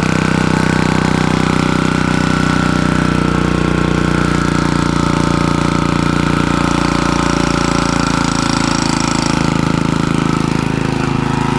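Engine fitted with a GEET fuel processor running steadily at an even speed.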